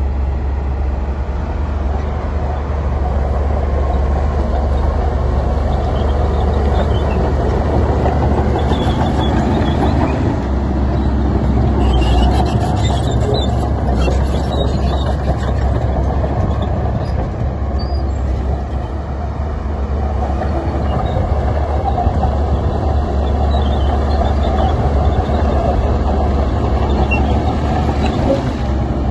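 Heavy diesel earthmoving machinery running steadily with a deep engine rumble, with a short stretch of metallic clanking about twelve to fifteen seconds in.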